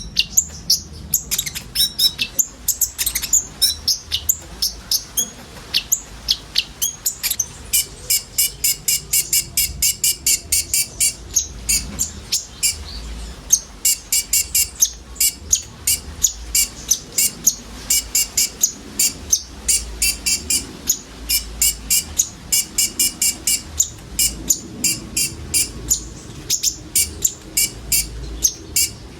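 Konin sunbird singing: a fast, unbroken stream of short, high chirps, with rapid buzzy trill runs now and then.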